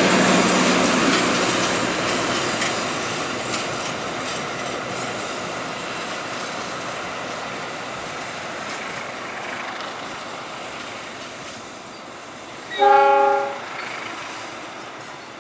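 Passenger train running along curved track, the rumble and clatter of its wheels on the rails fading steadily as it moves away. Near the end, one short train horn blast, the loudest sound.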